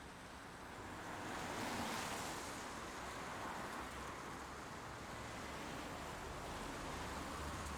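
Steady rain noise, swelling a little about a second and a half in and then holding even.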